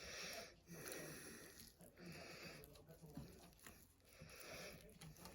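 Near silence with faint breathing close to the microphone, a soft puff of breath about once a second.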